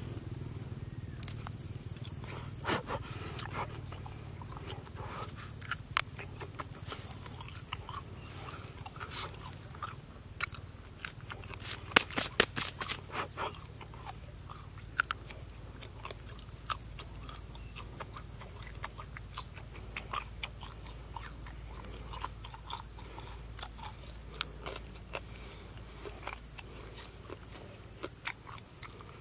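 Scattered small clicks and crackles from a raw insect being pulled apart by hand and chewed, with a quick cluster about twelve seconds in. A faint steady high-pitched tone runs underneath.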